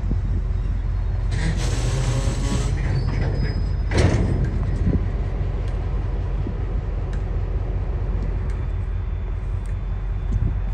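Freight wagons carrying tank containers rolling past on the rails with a steady low rumble. A brief hiss comes about a second and a half in, and a sharp clank about four seconds in.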